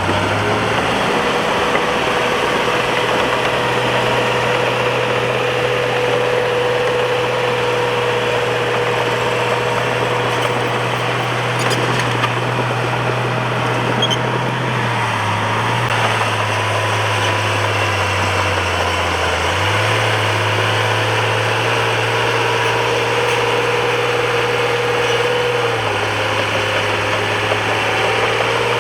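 Bulldozer's diesel engine running steadily. Its note dips about halfway through and again a few seconds later, then comes back up.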